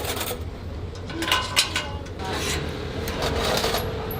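Several rough scraping or rubbing strokes over a steady low hum.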